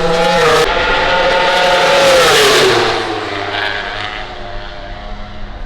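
A MotoGP prototype motorcycle's 1000 cc four-stroke engine passing at high revs, loudest a little past two seconds in, then dropping in pitch and fading as it moves away.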